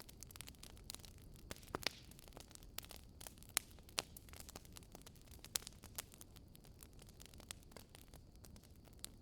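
Wood fire crackling in a fireplace: a steady low hiss broken by irregular sharp pops and snaps, the loudest about three and a half and four seconds in.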